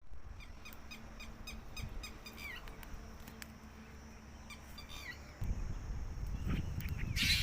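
Birds calling outdoors: a run of short high chirps, about three a second, then a few downward-sliding calls. About five seconds in, a low rumbling noise joins, and a loud burst of rustling noise comes near the end.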